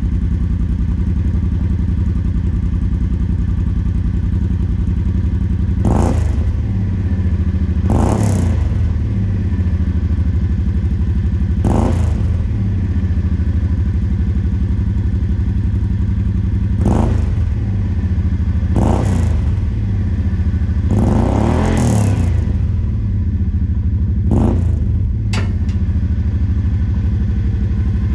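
Kawasaki Teryx UTV's V-twin engine idling through an aftermarket Magnaflow muffler, blipped about seven times: each rev rises and falls quickly back to the steady idle rumble.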